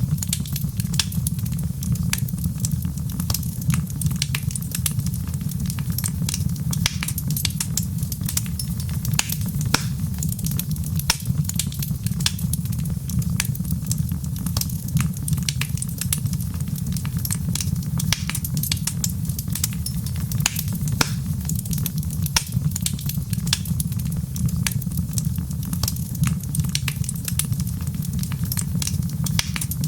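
Wood fire crackling in a fireplace: a steady low rumble of the flames with many small sharp pops and snaps scattered throughout.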